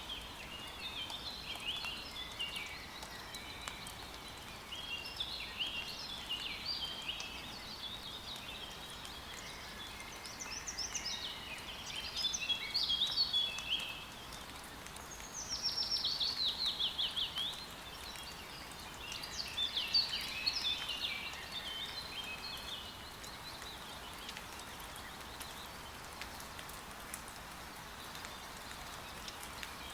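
Forest songbirds chirping and warbling almost without pause, with a quick falling trill about halfway through, over a faint steady hiss of rain.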